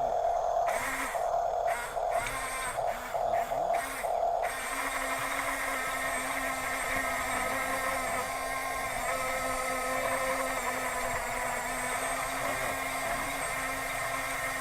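Small electric gear motors of a Huina radio-controlled construction model whining: short stop-start bursts for the first four seconds or so, then running steadily.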